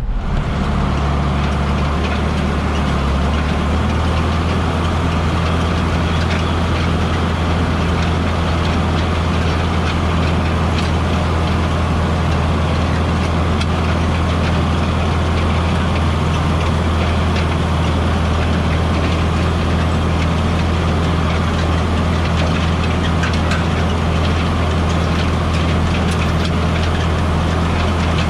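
A heavy engine running steadily at a constant speed, its low hum unchanging throughout.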